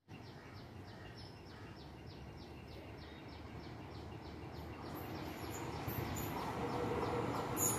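A short high chirp repeats about three times a second throughout, while the distant rumble of an approaching train, led by a WAG-5 electric locomotive, grows steadily louder through the second half with a steady hum.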